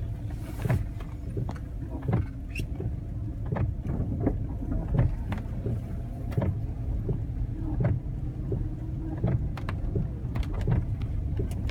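Car driving, heard from inside the cabin: a steady low rumble of engine and tyres, with frequent irregular clicks and knocks.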